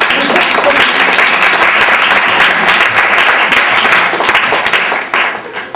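Audience applauding, many hands clapping; it starts suddenly and dies away near the end.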